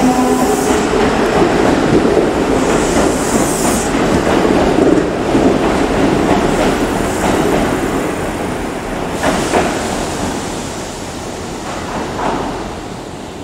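Kintetsu 20000 series "Raku" train pulling out of the station past the platform, with steady rolling wheel noise and a few sharp clicks over rail joints. The noise fades from about two-thirds of the way in as the train draws away.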